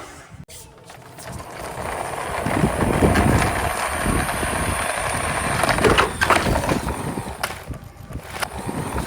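Toy vehicle's wheels rolling along a hard track, a rumble that builds over the first few seconds and holds. There are sharp knocks about six seconds in and twice more near the end.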